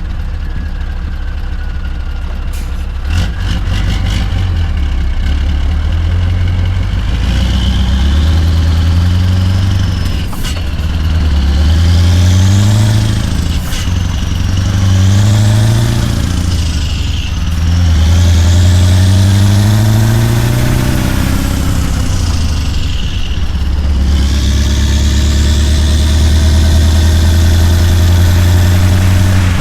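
Scania V8 diesel truck engine running steady, then pulling away and accelerating through several gear changes, its pitch climbing and dropping back at each shift. A high whine rises and falls with the revs.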